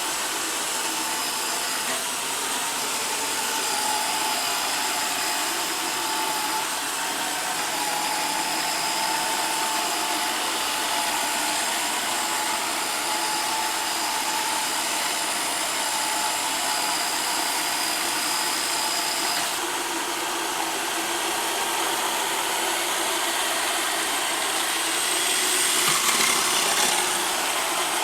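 Roomba Sage robot vacuum running, a steady whirr of its motors and brushes with a thin high whine. About two-thirds of the way through the high whine stops and the sound shifts, and near the end it briefly gets louder.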